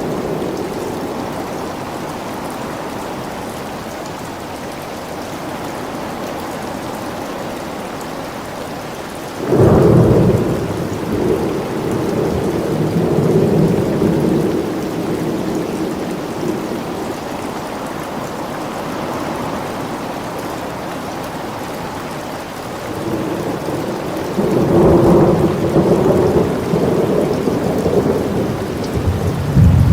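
Steady rain with thunder. A sudden thunderclap about a third of the way in rolls on for several seconds, and a second long rumble builds and peaks near the end.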